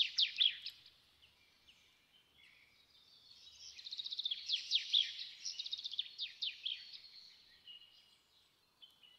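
Birds singing: quick runs of high chirps and trills, one phrase fading out about a second in and a louder one swelling and dying away in the middle, followed by a few steadier whistled notes near the end.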